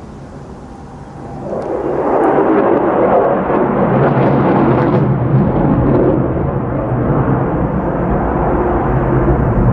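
F-35A Lightning II's single afterburning turbofan engine (Pratt & Whitney F135) as the jet flies by: the noise swells quickly about a second in and stays loud as a broad, steady rumble.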